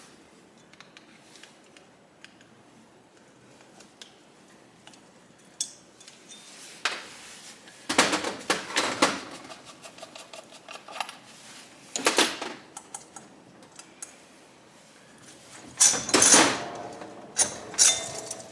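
Metal tools and small engine parts clinking and clanking on a workbench during motorcycle engine disassembly: scattered knocks with several louder clattering clusters and a short run of quick light ticks.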